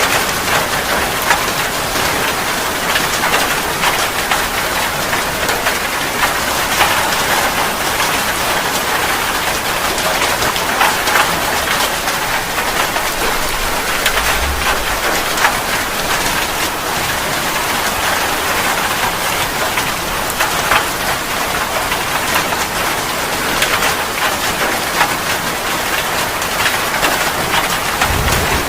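Steady heavy rain falling on a surface: an even hiss with single drops striking through it.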